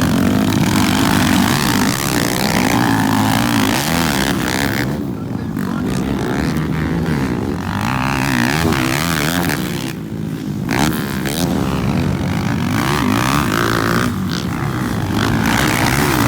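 Motocross motorcycle engines racing, their pitch rising and falling repeatedly as riders work the throttle and shift.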